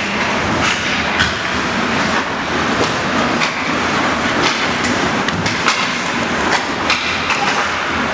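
Ice hockey play in a rink: a steady hiss of skates on the ice, broken by many sharp clacks and knocks of sticks and puck.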